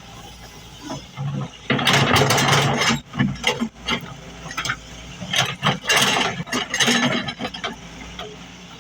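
Diesel engine of an excavator running steadily, with loud, rough bursts of clattering noise between about two and seven and a half seconds in.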